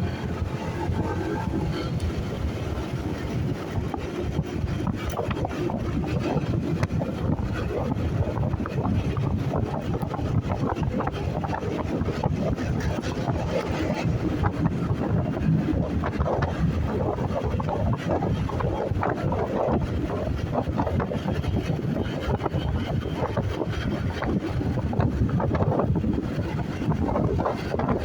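Steady wind rushing over the microphone of a moving motorcycle, with road and vehicle noise underneath.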